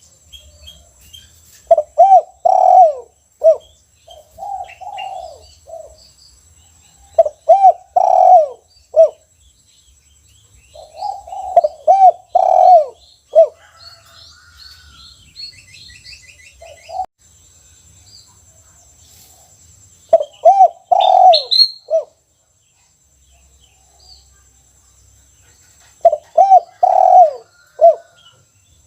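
Caged spotted dove cooing: about five phrases a few seconds apart, each a run of low coos ending in a short clipped final note, the single 'kuk' ending prized by Indonesian dove keepers.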